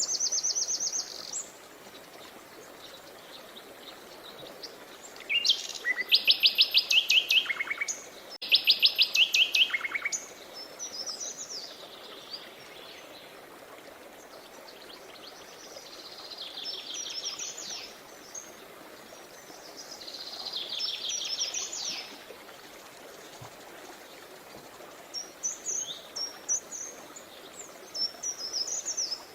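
Songbirds singing in bursts of fast, high trills and chirps, the two loudest trills about six and nine seconds in, over a steady rush of flowing river water.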